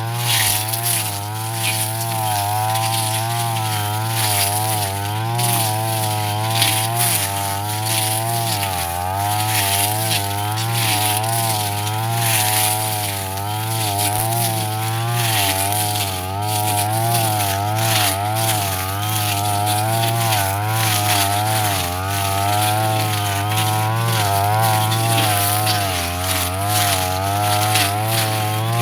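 Brush cutter engine running hard, its pitch wavering up and down about once a second as the load changes while the blade cuts through grass.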